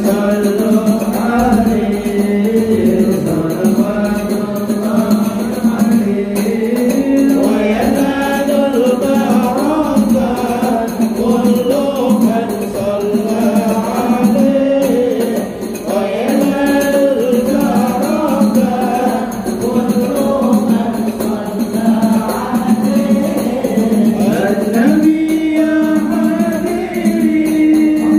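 Sholawat, an Islamic devotional song: voices singing a flowing Arabic melody with musical accompaniment and tambourine.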